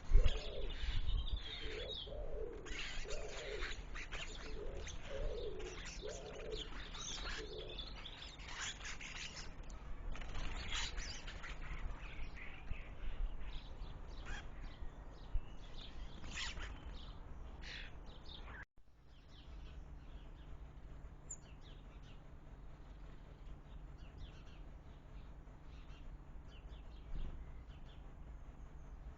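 Small birds chirping and calling at bird feeders, with a dove cooing in a run of low, repeated notes during the first several seconds. The sound cuts out for a moment about two-thirds of the way through, and the chirping is quieter afterwards.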